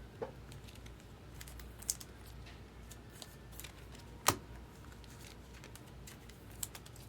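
Trading cards being handled: scattered light clicks and taps as cards are flicked and set down, the sharpest about four seconds in.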